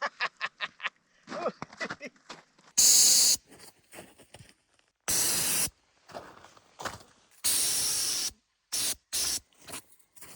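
An aerosol can sprays in several short hissing bursts, the longest just under a second, after a few light clicks at the start.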